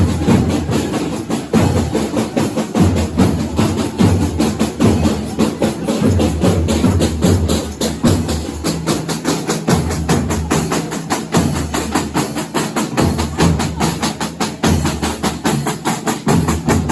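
Folia de Reis band playing: quick, steady percussion with jingling hand drums over held low notes that change pitch every few seconds.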